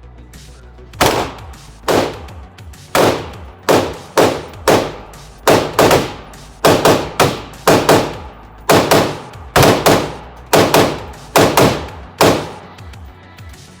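A string of about two dozen gunshots at a shooting range, fired in quick succession, often less than half a second apart. Each shot is a sharp crack with a short echo.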